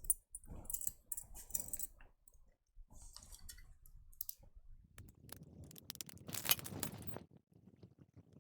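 Small clicks, taps and scratchy handling noises of tools and parts on a workbench while a component is fitted to a power supply board, with a denser stretch of scraping about five seconds in.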